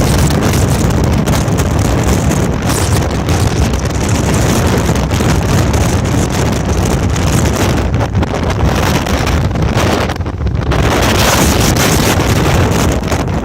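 Strong gale-force wind buffeting the microphone: a loud, steady rumble of wind noise, easing briefly about ten seconds in.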